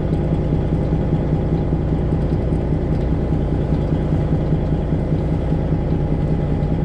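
Detroit Diesel 12.7-litre engine of a Freightliner Classic XL semi truck running steadily at low revs, a continuous low drone with no revving.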